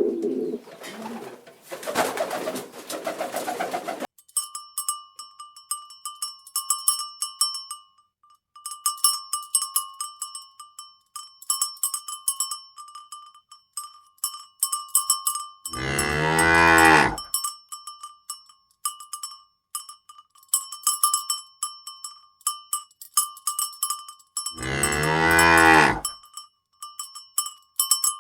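A cowbell clanking and ringing irregularly, with a cow mooing twice, once about halfway through and again near the end, each a long call of about a second and a half. Before the bell starts, the first few seconds hold a different, lower sound.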